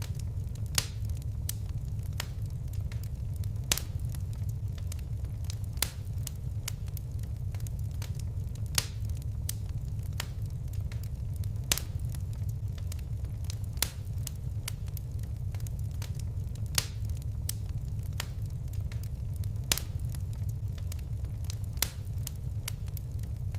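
Fireplace fire crackling, with a steady low rumble and irregular sharp pops, the loudest coming every couple of seconds.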